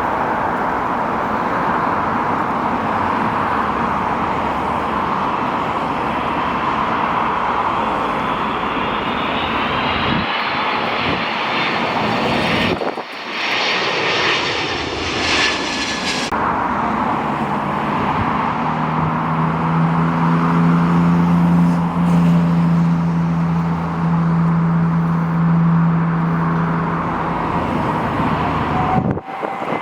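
Jet airliner engines running loud and steady, with a high whine that rises in pitch partway through. The sound breaks off abruptly a few times, and in the second half a steady low hum joins it.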